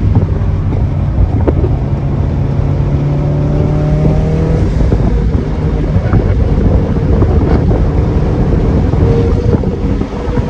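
Performance car engine and exhaust running hard on track, its pitch climbing slowly as it accelerates, with wind noise on the microphone.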